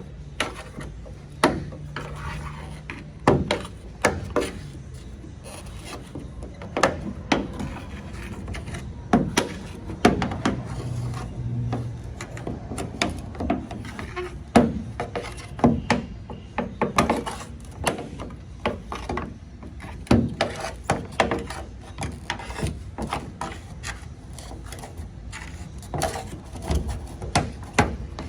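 Plastic bed rail cap of a Ford Super Duty pickup being pried off its rail with a hook tool: irregular sharp clicks and knocks as the cap and its retaining tabs are worked loose, over scraping and rubbing of plastic.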